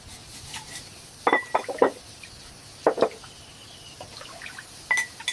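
Cookware and utensils clinking and knocking in a few quick groups, with a short metallic ring after the strongest hits, over a steady hiss.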